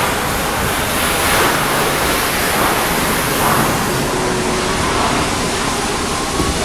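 Loud, steady noise from shipyard construction work, with a high hiss over it for the first few seconds.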